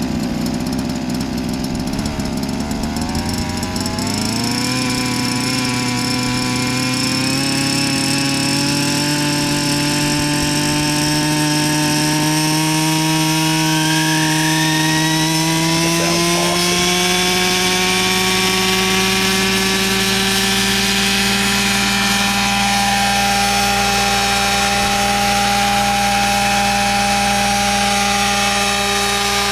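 Vario Benzin RC helicopter's 23cc two-stroke gas engine running, its pitch climbing gradually from a few seconds in until about halfway, then holding steady at a higher speed.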